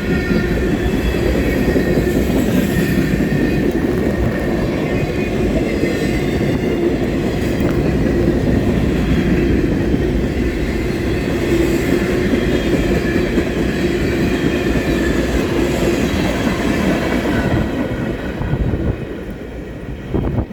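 Train rolling past, a steady loud rumble of wheels on rail that fades away near the end.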